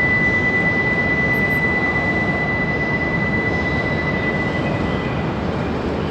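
Shinkansen train moving along the platform: a loud, steady rushing rumble with a steady high whine that fades out near the end.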